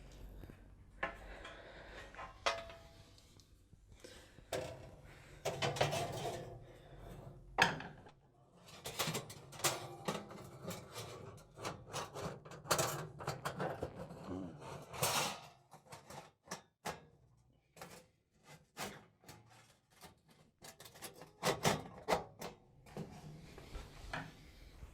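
Sheet-metal back panel (fan cover) of an electric fan oven being fitted back into the oven cavity: irregular metallic clanks, knocks and clicks as it is handled and secured.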